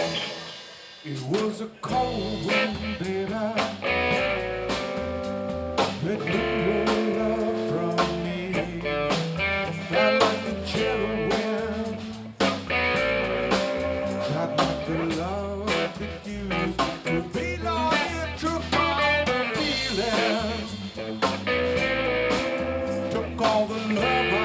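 Live blues-rock band playing an instrumental stretch of a song: electric guitar over bass and drum kit. The band drops out briefly about a second in, then comes back in.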